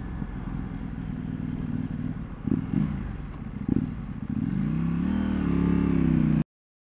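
KTM 790 Duke's parallel-twin engine running under way, with two short throttle blips, then rising in pitch as the bike accelerates from about four seconds in. The sound cuts off suddenly near the end.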